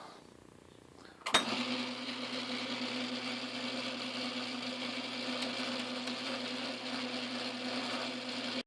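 Craftsman Atlas metal lathe switched on with a click a little over a second in, then running with a steady motor hum; it stops abruptly at the very end.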